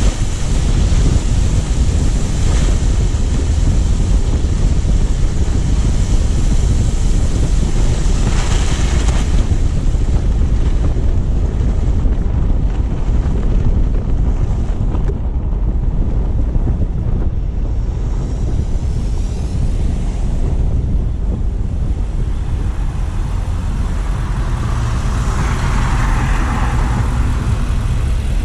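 A car driving, heard through a low-mounted action camera: steady low road and tyre rumble under heavy wind buffeting on the microphone. There are brief swells of hiss about eight seconds in and again near the end.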